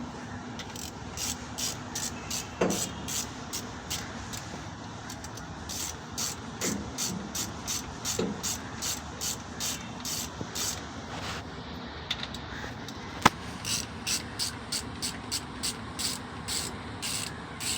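Hand ratchet wrench clicking in quick, even strokes, about three a second, with a short break two-thirds of the way through. A few dull metal knocks and one sharp metallic clink come in between.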